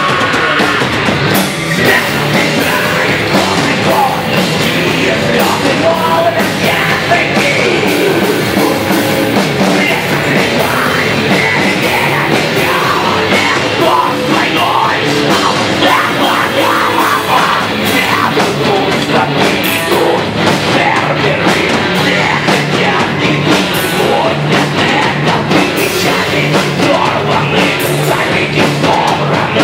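Heavy rock music: distorted electric guitars, bass and a driving drum kit playing an instrumental passage at a steady loud level.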